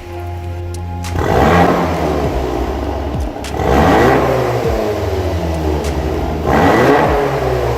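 VW Golf 7 R's turbocharged four-cylinder engine through a Cende Exhaust aftermarket exhaust line and silencer, revved three times, its pitch rising and falling with each rev.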